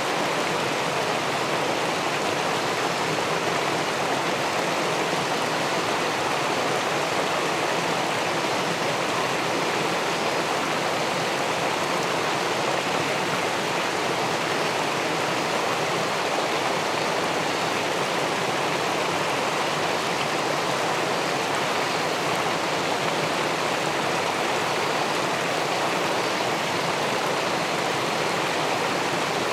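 River water pouring over a weir into the pool below: a steady, unbroken rush.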